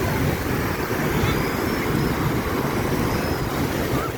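Wind buffeting the microphone over the surf of a rough, high sea: a steady, loud, low rumbling noise.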